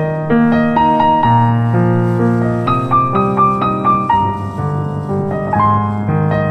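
Background music: a piano playing a slow, gentle melody over held low chords.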